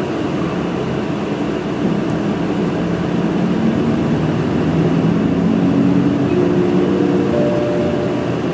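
City bus engine and cabin noise heard from inside the bus. The engine note rises from about four and a half seconds in as the bus picks up speed.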